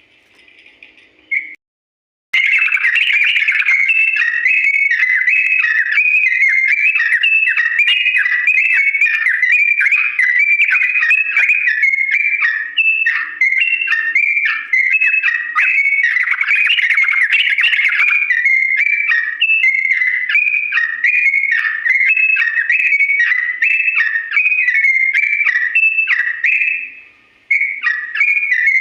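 Yellow-vented bulbul (trucukan) singing a long unbroken run of quick, high whistled notes. It begins about two seconds in and pauses briefly near the end.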